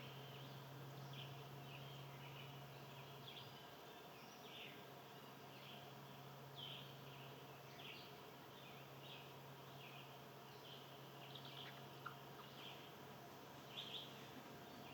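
Faint outdoor ambience: small birds giving short high chirps, about one a second, over a steady low hum.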